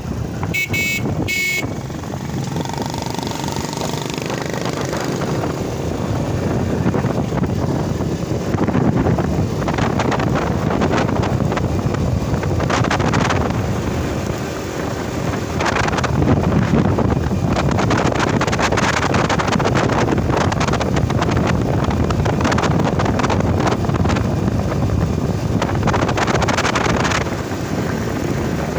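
Crown HD Plus 70cc motorcycle's single-cylinder four-stroke engine running steadily while riding along. A few short, high beeps sound about a second in.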